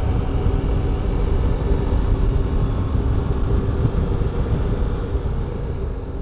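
Triumph Tiger motorcycle cruising at a steady speed: a steady engine note under a dense rush of low road and wind noise, slowly fading toward the end.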